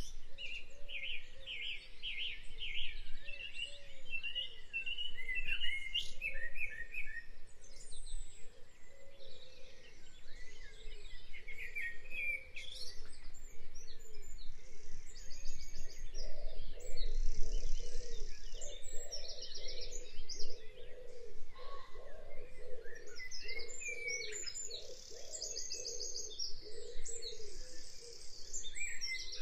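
Several birds chirping and singing together: quick high chirps and trills, over a steady run of lower warbling calls that grows busier about halfway through.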